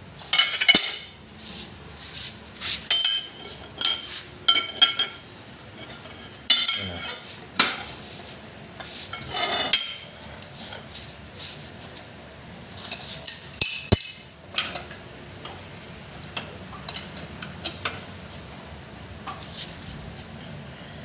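Metal tools and parts clinking and knocking against each other during rear axle bearing work: a run of sharp taps with short metallic ringing, thinning out to a few faint taps after about fifteen seconds.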